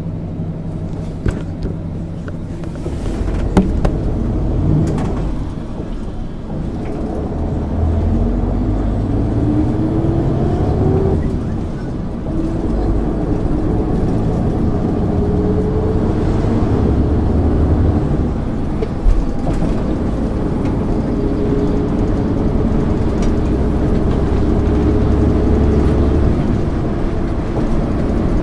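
Engine of a MAN ÜL 353 intercity bus pulling under way. Its pitch climbs in several long rises as the bus accelerates, with a few short knocks and rattles.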